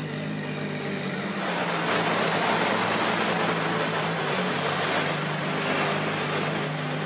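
Ferrari F50's V12 engine running as the car pulls slowly through a turn, getting louder about a second and a half in and easing off again near the end.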